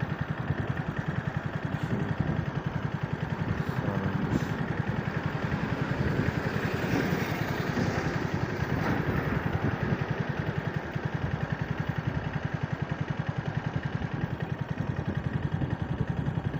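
Motorcycle engine idling steadily at a standstill, a fast even beat of firing pulses.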